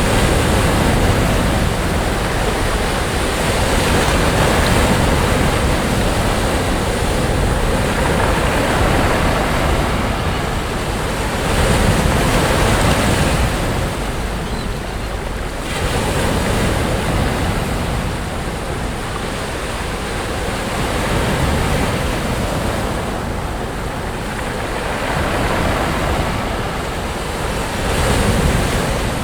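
Sea waves breaking on a beach, a continuous wash of surf that swells and eases every few seconds as each wave comes in.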